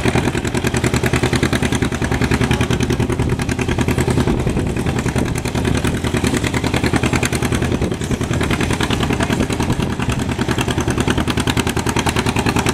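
Engine idling steadily and loudly, with a fast, even pulse that holds the same pace throughout.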